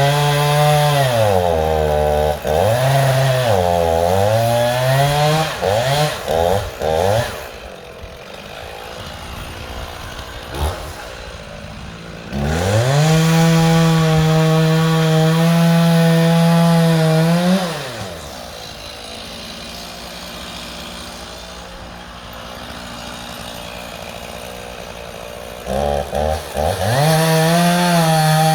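Two-stroke chainsaw revved to full throttle and held there for several seconds at a time, its pitch dropping and climbing again with quick blips of the throttle. In between, it falls back to a much quieter running sound before revving up again.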